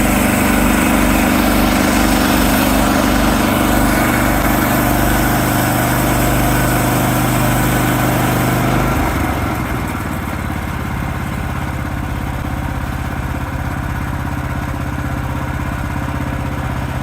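Woodland Mills portable bandsaw mill: its gas engine runs under load as the band blade saws through a white pine log. About nine seconds in, the cut ends and the engine carries on more quietly and steadily without the cutting noise.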